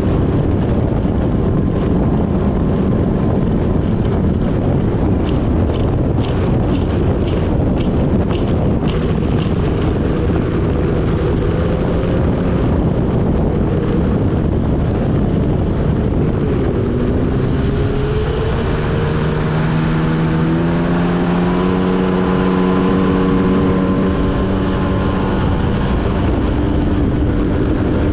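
1994 Yamaha Wave Raider jet ski's two-stroke engine running under way, mixed with rushing water and wind. About two-thirds of the way in the engine note climbs as it speeds up, then holds steady.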